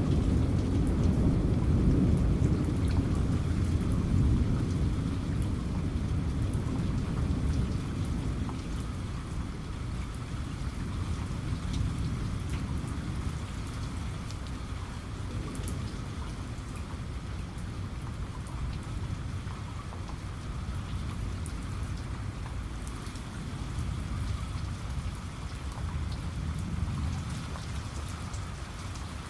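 Steady heavy rain falling, with a long low rumble of thunder that fades away over the first several seconds. A fainter low rumble swells again near the end.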